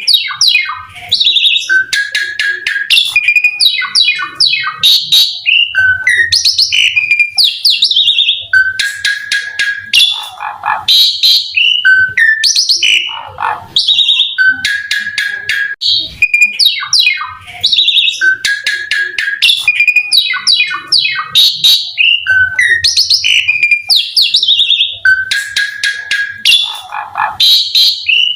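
Asian pied starling (jalak suren) singing hard and without pause: a fast, varied run of clear whistles, sweeping glides, harsh buzzy notes and rapid trills.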